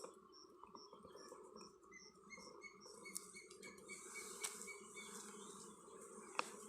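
Faint bird chirping: a run of short, evenly spaced notes, about three a second, first high and then a lower run, over a steady faint hum. A few sharp clicks, the loudest near the end.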